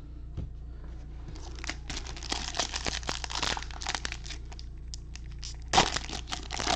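Plastic wrapper of a Bowman baseball card pack being torn open and crinkled in the hands, a dense run of crackles and small snaps starting about a second in, with a louder crinkle about six seconds in.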